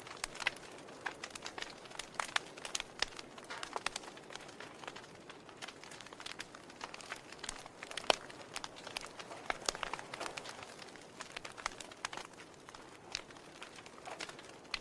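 Burning wood logs crackling: irregular sharp pops and snaps over a soft hiss, with the loudest snap about eight seconds in.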